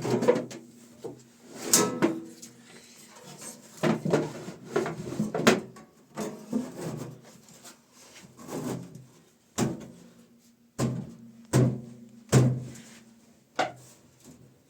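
A series of irregular wooden knocks and clatters, about a dozen, spaced roughly a second apart with gaps, each with a short low ring.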